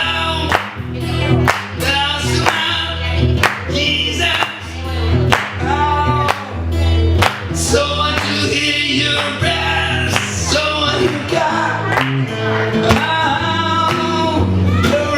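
A live band playing a song: a voice singing over low bass notes and a drum beat.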